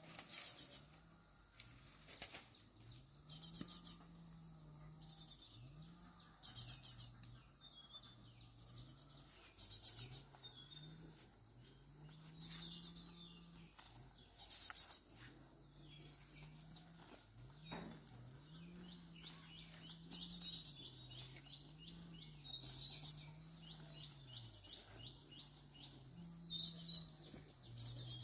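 Insects calling outdoors in short, high, buzzing pulsed bursts repeated every second or two, with birds chirping between them. A faint low hum rises and falls slowly in pitch.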